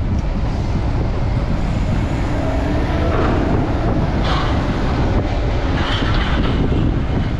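Strong wind buffeting the microphone, a loud, steady rumble heaviest in the low end.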